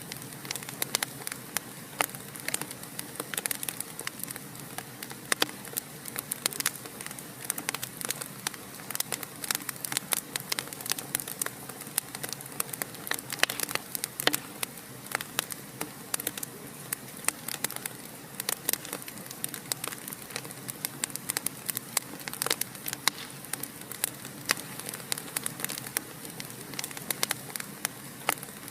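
Wood fire burning in a fireplace: constant irregular crackling and popping over a soft steady hiss.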